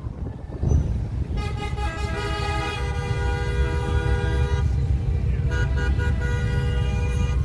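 Several vehicle horns honking together in long held blasts at different pitches over the low rumble of traffic, starting about a second and a half in, easing briefly, then sounding again.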